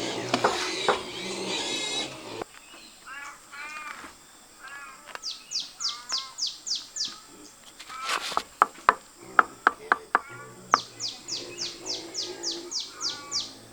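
A bird singing two quick runs of high, falling chirps, about eight notes each. Sharp knocks sound in between, and a loud, noisy sound comes first, lasting about two seconds.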